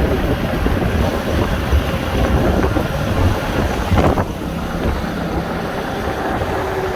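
Steady rumble of road traffic with wind buffeting the microphone, and one short sharp sound about four seconds in.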